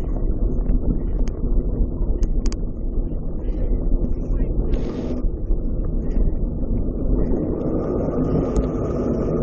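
Wind buffeting the microphone as a steady low rumble, with scattered sharp clicks and a short hiss about five seconds in.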